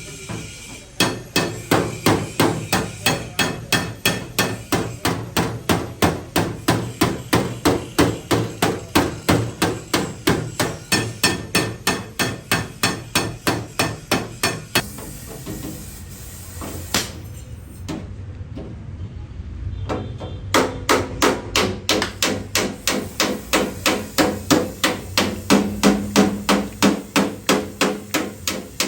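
Hammer beating the sheet metal of a damaged car door in rapid, even blows, about three a second, as panel-beating bodywork. The hammering stops for several seconds about halfway through, then starts again at the same pace.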